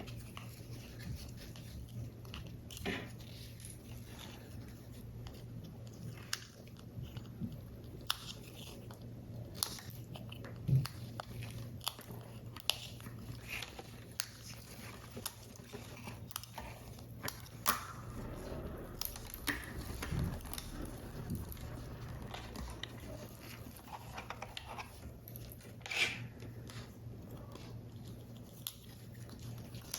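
Paper and card being handled while a paper model is assembled: scattered crisp clicks, creases and short rustles at irregular intervals, over a faint steady low hum.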